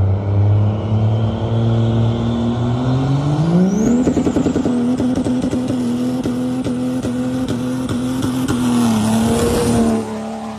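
Diesel truck engine running, then revving up about three seconds in, with a high whistle rising alongside, and held at high revs with a rapid pulsing, rattly note for several seconds before easing off near the end.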